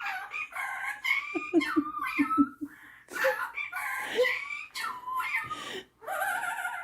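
Superb parrot chattering and warbling in a run of squeaky, gliding notes, mixed with mimicked speech-like sounds. Between about one and two and a half seconds in there is a quick series of short, low, laugh-like notes.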